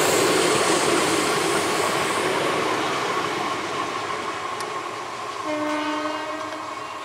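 Passenger coaches of an express train running past on the track, the noise slowly fading as they move away. About five and a half seconds in, a train horn sounds one steady note for about a second.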